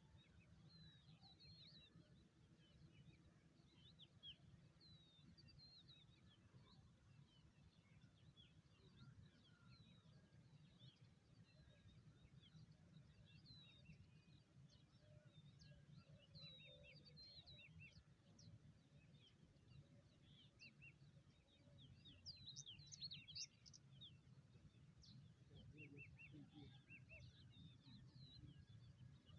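Faint birdsong: many short chirps and quick sweeping notes from small birds, busiest a little past two-thirds of the way through, over a low steady rumble.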